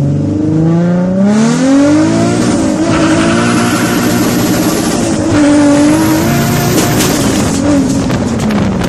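Car engine heard from inside the cabin, accelerating hard through the gears of a manual gearbox: the pitch climbs, drops at a gear change a little under three seconds in, climbs again and drops at another change a little after five seconds, then falls away near the end as the throttle comes off. A faint high whine rises along with the engine in each gear.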